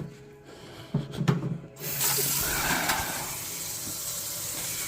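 A few short knocks, then the kitchen faucet comes on just before two seconds in and water runs steadily into the sink, run to test the freshly tightened drain connections for leaks.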